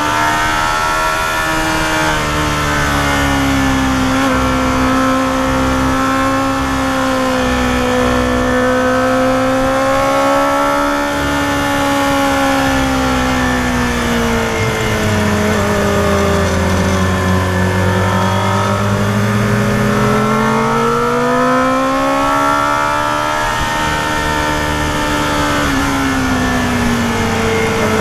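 Yamaha FZR250R's high-revving 250 cc inline-four engine running under way on a winding climb. Its pitch falls smoothly about halfway through, climbs back, and falls again near the end, with a steady rush of wind and road noise underneath.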